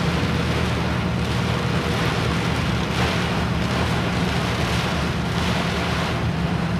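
A vehicle's engine running steadily at low speed while driving through floodwater, with a rushing hiss of water and wind that swells every couple of seconds.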